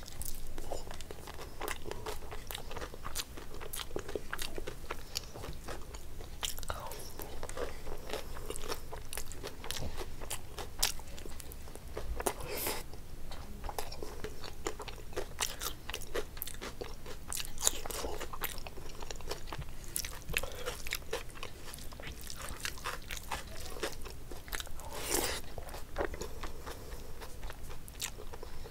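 Close-miked chewing and wet mouth sounds of a person eating rice and chicken curry by hand, with frequent irregular sharp clicks and smacks.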